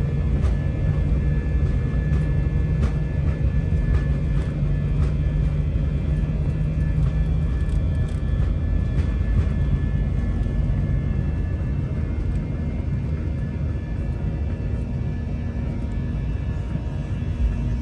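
Jet airliner engines and airflow heard from inside the cabin during the climb after takeoff: a steady rumble with a low engine drone that fades about seven seconds in, and a higher hum that comes in later.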